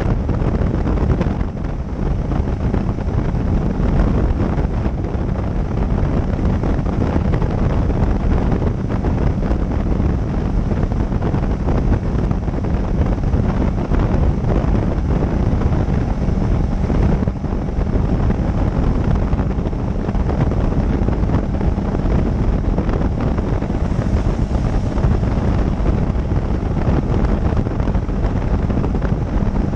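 Steady wind rushing over the microphone of a motorcycle-mounted camera at riding speed, with the motorcycle's engine running beneath it.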